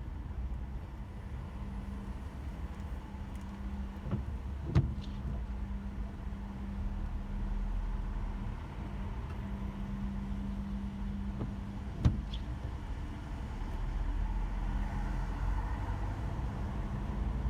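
Inside a car in slow traffic: a steady low engine and road rumble with a faint steady hum, broken by two sharp taps, about five and twelve seconds in.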